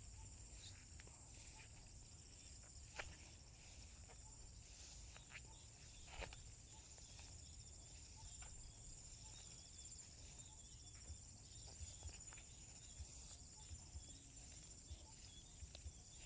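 Faint, steady high-pitched insect chorus trilling without pause, with a few soft footsteps about three and six seconds in.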